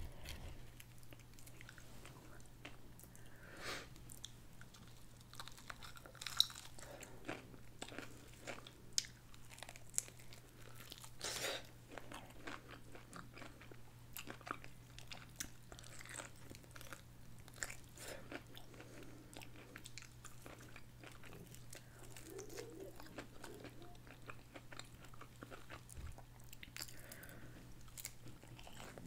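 Close-up eating sounds of biting into and chewing a crispy fried chicken wing, with many scattered crisp crunches. A faint steady low hum runs underneath.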